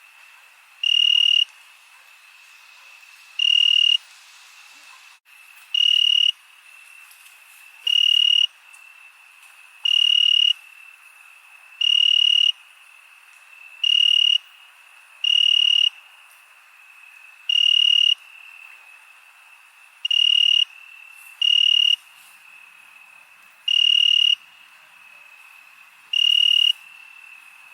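Crickets at night: one loud cricket chirps in half-second bursts about every two seconds, over a steady, fainter high trill from others.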